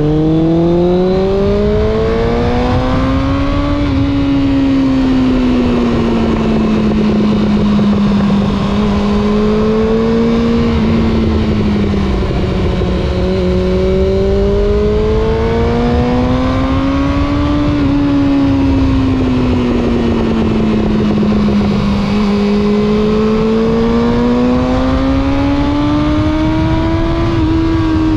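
A Suzuki GSX600F motorcycle's inline-four engine under way. Its note rises and falls slowly several times as the throttle opens and closes, with a few sudden jumps in pitch, over steady rushing wind noise.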